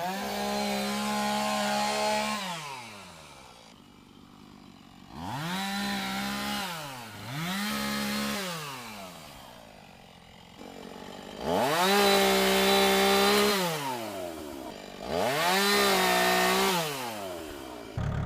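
Two-stroke chainsaw revved five times with no cutting: each time the engine climbs to a high steady whine, holds for a second or two, then drops back toward idle. Near the end it settles into a low idle.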